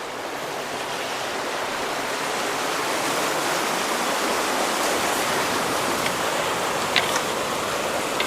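Rain-swollen creek water rushing through a road culvert, a steady heavy flow that grows louder over the first few seconds. A few faint clicks come near the end.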